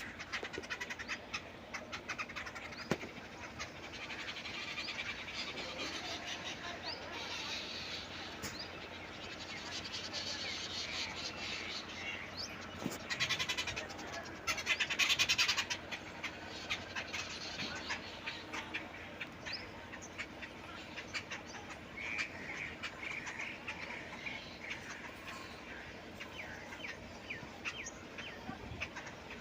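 Morning birdsong: bulbuls chirping and calling over and over, with a louder, fast-repeating run of calls about halfway through.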